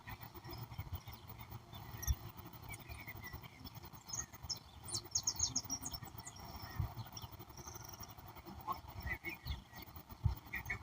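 Birds calling: scattered short chirps and twitters from several birds, busiest about four to six seconds in. A low rumble runs underneath, with a few brief low thumps.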